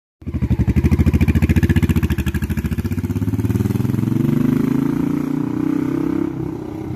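1988 Honda Shadow VT1100's V-twin engine running with a loud, pulsing exhaust beat. Its pitch rises as it revs up through the middle, then it eases off near the end.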